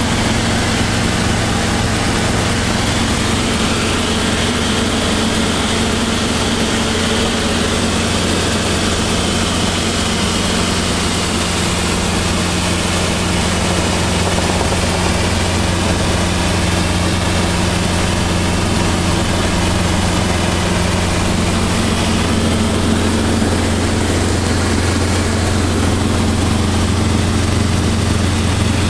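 Robinson R22 helicopter's piston engine and rotors running steadily, a constant low drone under broad rushing noise.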